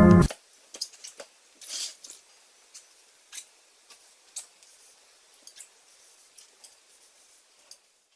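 Background music cuts off abruptly at the start, followed by faint, irregular small clicks and taps.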